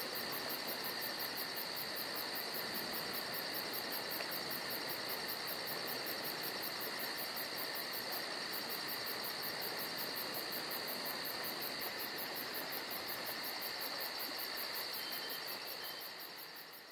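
Steady chorus of chirping insects, cricket-like, with a fast, even pulsing in the highest notes; it fades out near the end.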